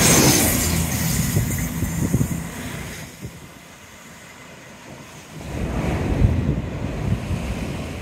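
A CrossCountry Voyager diesel train passing close and fading away over the first few seconds. After a lull, wind buffets the microphone and surf breaks again from about five and a half seconds in.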